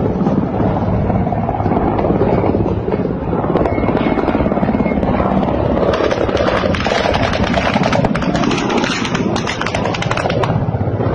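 Military helicopter flying low overhead with a fast, steady rotor chop. It grows louder and brighter from about six seconds in, then eases off near the end.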